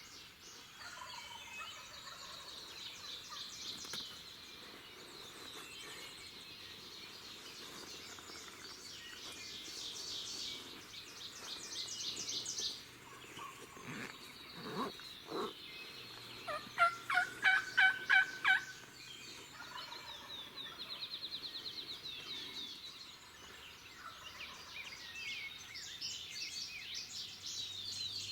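Wild turkey gobbling over a morning chorus of trilling songbirds. The gobble is a loud rapid rattle about two-thirds of the way in and is the loudest sound.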